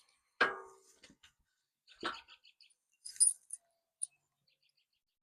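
Metal clanking and clinking from steel bumper parts and their nuts and bolts being handled. A ringing clank comes about half a second in and another about two seconds in, then lighter high clinks around three and four seconds.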